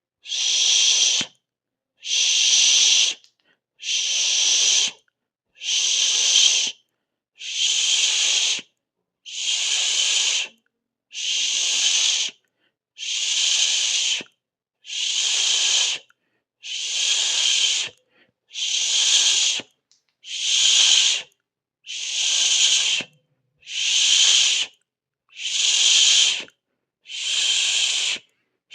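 Bursts of high-pitched hiss, each lasting about a second and a half, repeating evenly about every two seconds with silence between.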